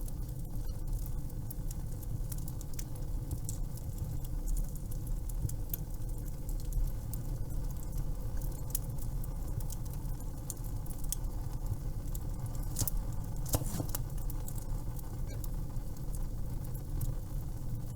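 Wood fire crackling in a fireplace: irregular sharp crackles and pops over a steady low rumble.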